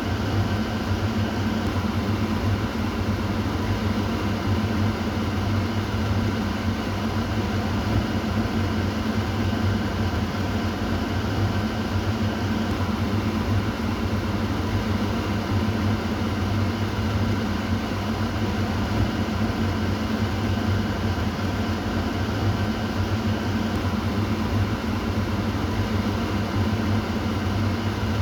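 Kitchen exhaust fan running steadily: an even rush of moving air over a low motor hum.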